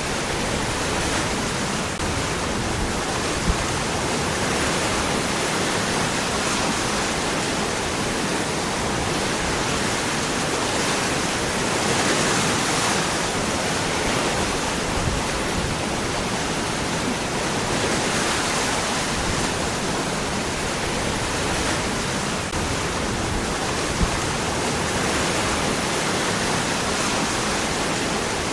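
Waterfall: water pouring steadily over rocks, a continuous dense rushing.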